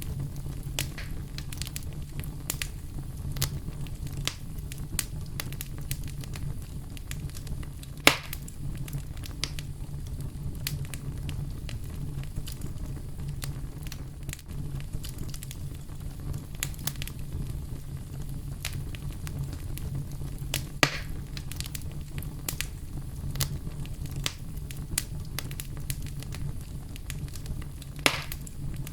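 Campfire burning: a steady low rumble of the flames with constant small crackles, and three louder sharp pops, about 8, 21 and 28 seconds in.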